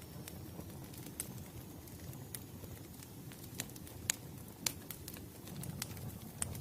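Wood fire crackling: a low, steady rumble of burning logs with irregular sharp snaps and pops, the loudest a little past the middle.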